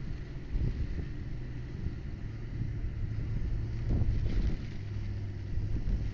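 Leyland diesel engine of an Atlas Copco X175 portable compressor running with a steady low hum, with wind rumbling on the microphone.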